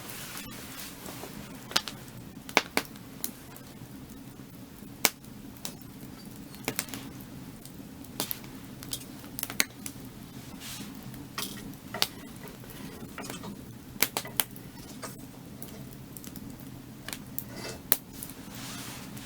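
Burning firewood crackling, with irregular sharp pops and snaps, a few much louder than the rest, over a steady low rush.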